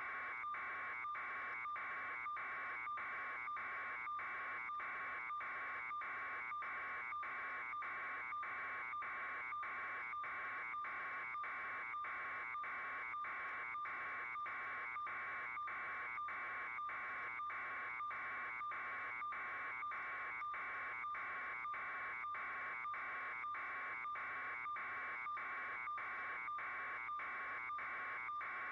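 A steady electronic-sounding buzz, broken by short regular gaps about twice a second so that it pulses evenly.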